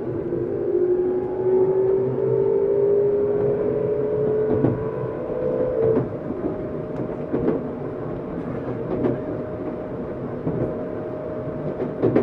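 Tokyu 7700-series electric commuter train heard from inside the car: the traction motors' whine rises in pitch as the train picks up speed, then changes to a steady tone about halfway. Wheels knock over rail joints every second or so, over a steady running rumble.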